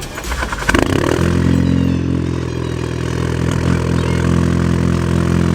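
A brief clatter, then an engine settles into a steady idle about a second in.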